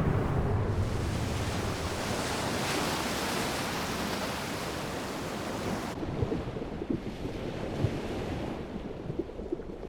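Rushing ocean surf, full and steady. About six seconds in, the sound turns duller, losing its hiss, and short low bubbling blips appear.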